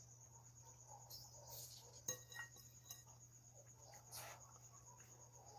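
Near silence with faint eating sounds: soft mouth noises while chewing and a light clink of a utensil about two seconds in, over a steady faint high-pitched trill.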